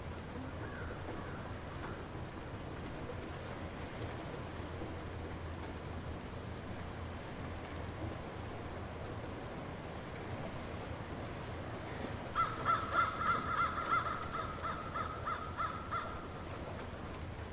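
Light rain falling steadily. About twelve seconds in, a bird gives a quick series of about ten loud calls, roughly three a second, fading over some four seconds.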